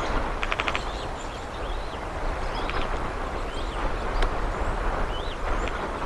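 Short, thin bird chirps, each rising then falling, repeating about once a second over a steady outdoor rush with a low rumble. A quick rattle of clicks comes about half a second in.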